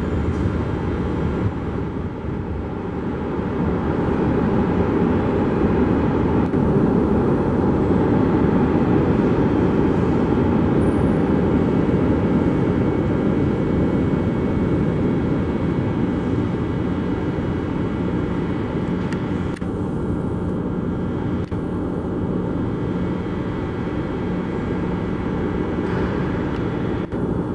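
São Paulo Metro train in the station: a steady rumble with a few faint held tones, at an even level.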